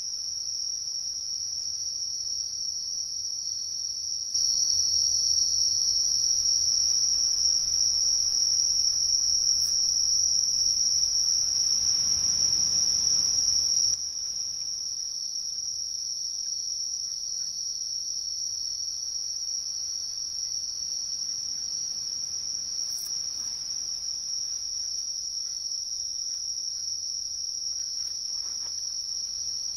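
Night insect chorus in tropical forest: a steady, shrill high-pitched drone with a fainter, higher band above it. It steps up louder about four seconds in and drops back down about fourteen seconds in.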